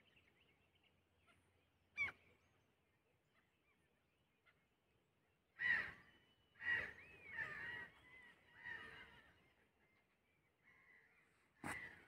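Wild birds calling: one sharp call about two seconds in, a burst of several calls around the middle, and another call near the end.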